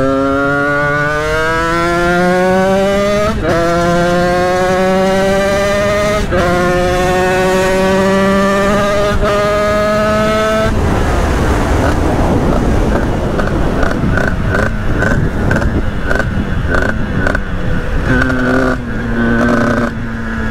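Sherco 50cc two-stroke supermoto engine, fitted with a Stage6 R/T kit, pulled hard through the gears. Its pitch climbs, with a short break at each shift about every three seconds. About ten seconds in, the throttle is shut and the steady engine note gives way to rushing wind and engine noise off throttle.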